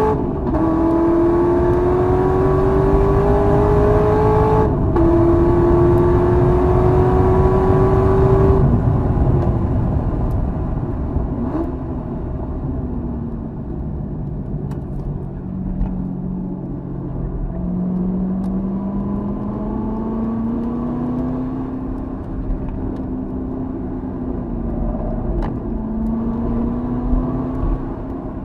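Corvette Z06's V8 engine at full throttle, its note climbing and dropping sharply twice at upshifts in the first five seconds. About 8.5 s in the driver lifts off and brakes, and the engine goes quieter. Later the engine pulls again, its note rising slowly.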